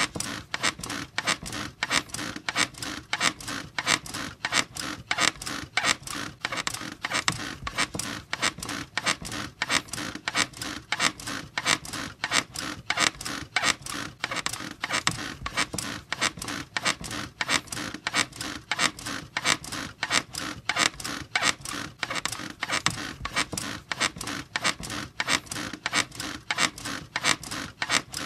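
Bed squeaking rhythmically, with short repeated creaks at about three a second, keeping an even, unbroken rhythm.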